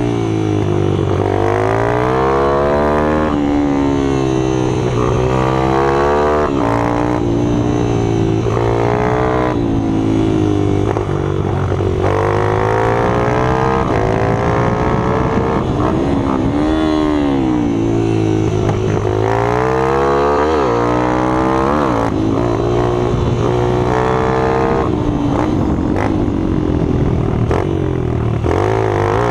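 Small minibike engines running hard, their pitch rising and falling over and over as they accelerate and ease off.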